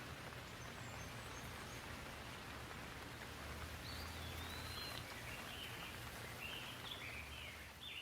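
Soft, steady rain, with a bird singing a run of short warbling phrases from about halfway through.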